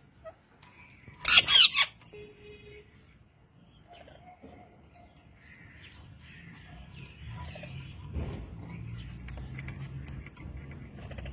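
A parrot giving a loud, harsh burst of about three quick screeches about a second and a half in, followed by fainter chirps. From about seven seconds in, a low rumble builds underneath.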